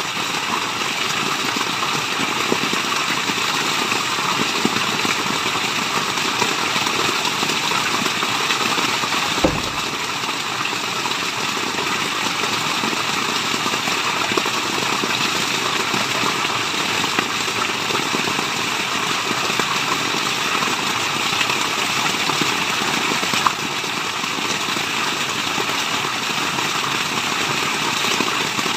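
Steady rushing water of a waterfall, an even white-noise wash, with one brief low thump about a third of the way through.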